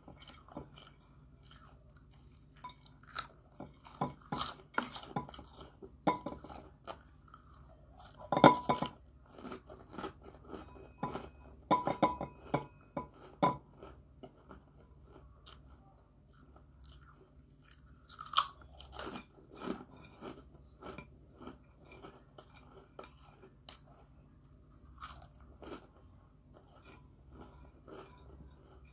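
Crispy puffed snacks being bitten and chewed close to the microphone: irregular bursts of crunching and crackling, the loudest about a third of the way in, with quieter chewing between.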